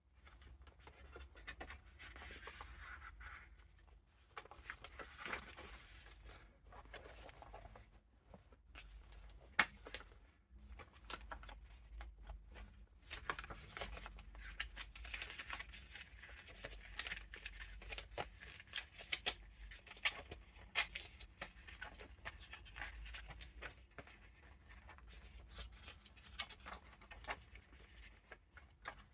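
Paper pages and vintage ephemera of a handmade junk journal being turned and handled: soft rustling and crinkling with frequent small taps and clicks, over a faint low hum.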